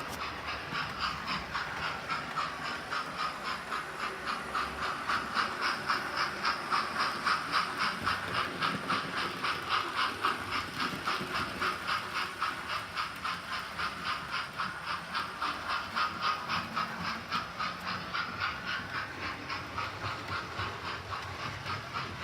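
Recorded steam-locomotive sound from the small speaker of an OO gauge Hornby model locomotive with a TTS sound decoder: a steady rhythm of exhaust chuffs with hiss, the beat a little louder through the middle.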